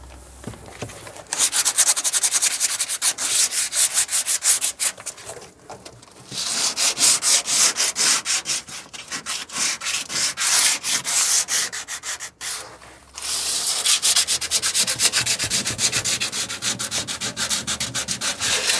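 Sanding the coated floor of a pickup bed by hand, with quick back-and-forth scraping strokes in three bouts and short pauses about five and twelve seconds in. It scuffs the spots where adhesive strips will be stuck down.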